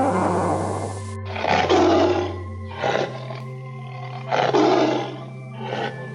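A large wild animal roaring in several separate calls, two longer ones and two short ones, over background music with steady held tones.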